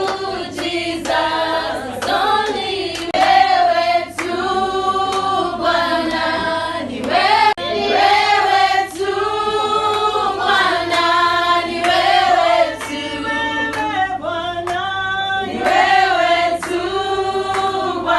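A group of women singing together in a choir, accompanied by steady hand clapping; the singing cuts off suddenly at the end.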